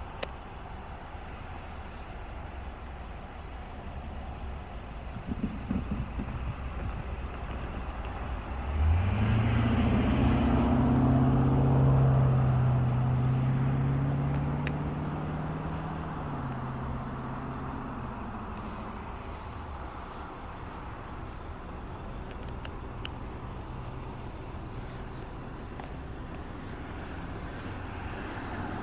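Steady low rumble with a heavy engine drone that rises about nine seconds in, holds for several seconds and fades away. The rumble builds again near the end as the train's headlight draws close.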